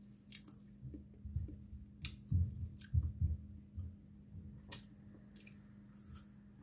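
A person chewing a mouthful of frozen watermelon ice pop close to the microphone: uneven chewing sounds through the middle, with a few sharp clicks.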